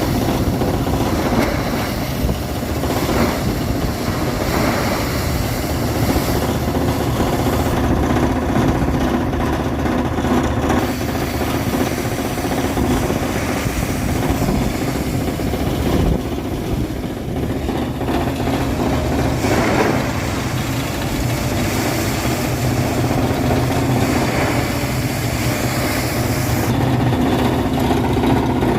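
A motor or engine running steadily with a continuous hum.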